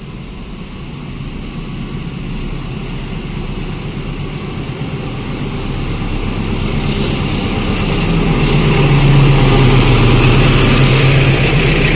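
Diesel locomotive approaching, its engine drone growing steadily louder, with a strong low hum loudest from about eight to eleven seconds in and a hiss that rises over the second half.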